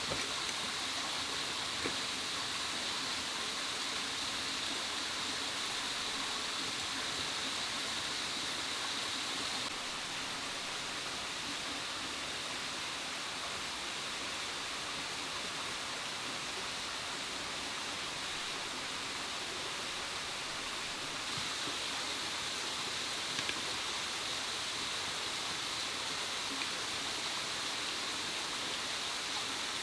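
Steady, even outdoor hiss like flowing water, with a brighter high band running through it; its tone shifts slightly about ten seconds in and again a little past twenty seconds.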